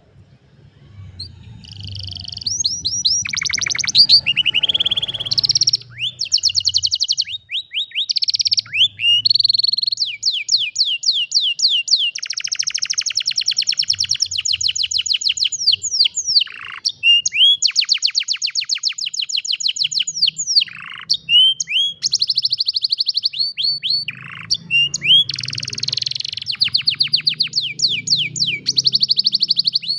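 Canary singing a long, near-continuous song of fast trills and rolls of rapidly repeated high notes, starting about a second in. A faint low rumble runs underneath.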